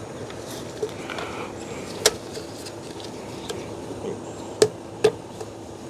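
Sharp plastic clicks and light taps from handling the fuel pump assembly as its wiring is hooked into the retaining clips, a handful of separate clicks over a faint steady hum.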